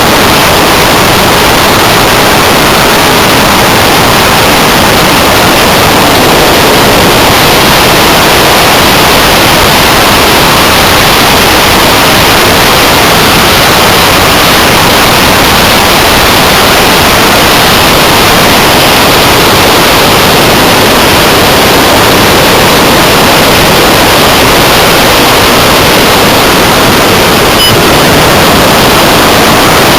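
Loud, steady rush of wind over the microphone of a small onboard camera on a flying electric RC hotliner model plane.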